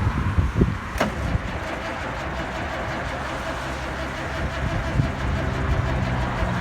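Caterpillar 3116 turbo diesel engine trying to start from cold: a sharp click about a second in, then a steady drone.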